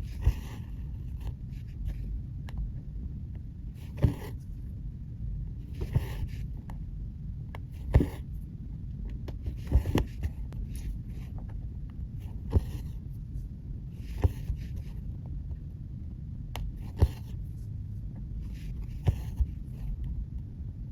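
Cross-stitching by hand: a needle taps through the fabric and the floss is drawn through with a brief rustle, about every two seconds, over a low steady rumble.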